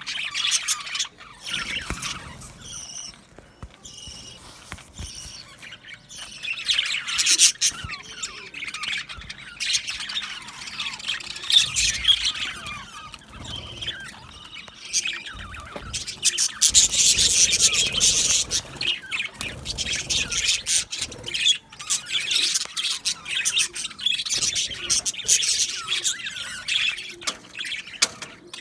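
A flock of budgerigars chattering: many overlapping chirps, warbles and squawks, rising to loud surges of chatter several times and easing between them.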